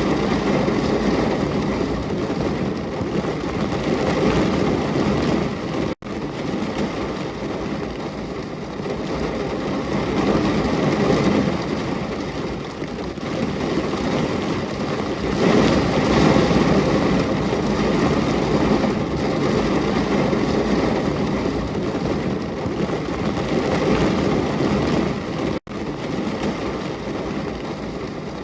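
Steady rain, an even hiss strongest in the low-middle range, that cuts out for an instant twice, about six seconds in and near the end.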